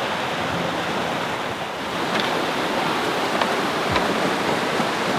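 Steady rush of a waterfall, water pouring down without a break, with a few faint clicks.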